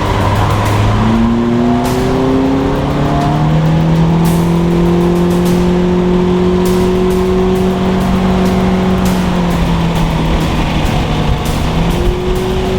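2011 Nissan Altima coupe's 2.5-litre four-cylinder engine pulling under acceleration. Its pitch climbs over the first few seconds, drops back, then holds steady. It eases off around ten seconds in and picks up again near the end.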